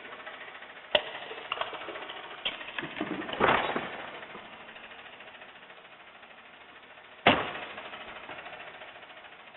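Garbage truck running steadily, with sharp metallic clanks and bangs: one about a second in, a louder cluster a couple of seconds later, and a single loud bang after about seven seconds.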